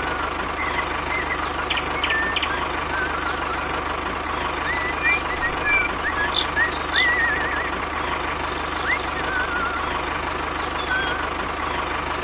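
A steady mechanical running noise with a faint high whine, with small birds chirping over it.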